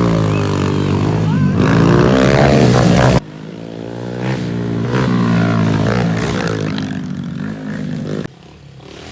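Pit bike engines revving, their pitch rising and falling. The sound changes abruptly about three seconds in and again near the end, where it turns quieter.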